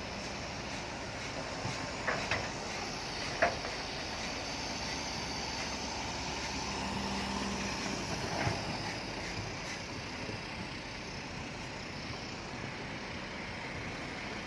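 Heavy earthmoving machinery running steadily, with a few sharp knocks: one pair about two seconds in, another just after, and one more past the middle.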